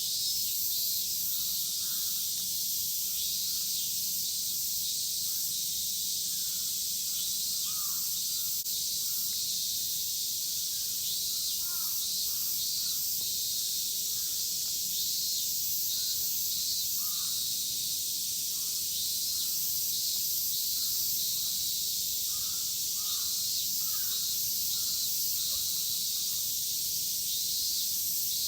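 Steady, dense high-pitched drone of a midsummer cicada chorus, with birds calling now and then underneath.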